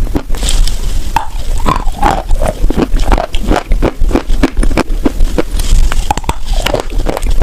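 Close-miked chewing and crunching of wet edible chalk with chalk paste: a rapid run of short crisp crunches, several a second, over a low steady hum.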